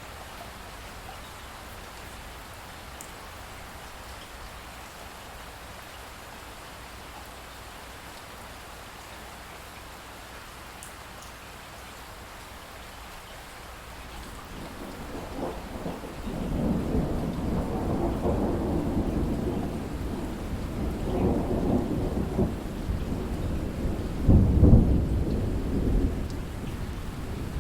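Steady rain falling, joined about halfway through by a roll of thunder that builds and rumbles for several seconds, loudest near the end.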